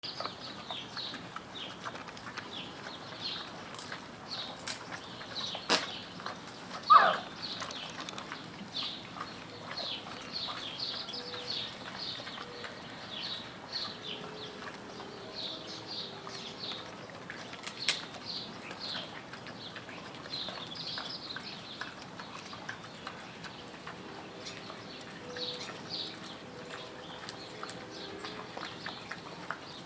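Small birds chirping rapidly and continuously around foraging red river hogs, with a few sharp clicks and one loud, short, falling call about seven seconds in.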